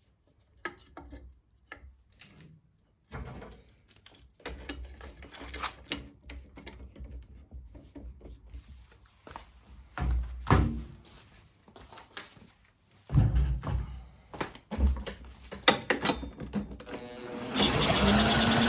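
Clicks, knocks and a few heavier thumps of hands working on a lawn mower's engine and spark plug. About a second before the end, a loud steady motor sound starts, its pitch wavering up and down.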